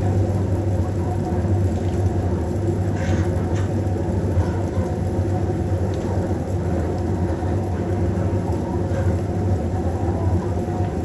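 A steady low mechanical hum that does not change in level.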